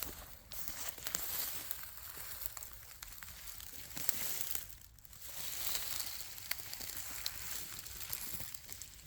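Rustling and crackling of dry leaves and twigs being trampled, with irregular crunching steps.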